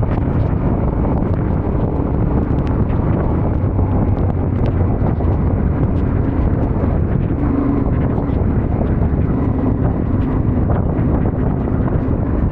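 Wind buffeting the microphone over a Yamaha Ténéré 700's parallel-twin engine running at a steady pace, with scattered small ticks.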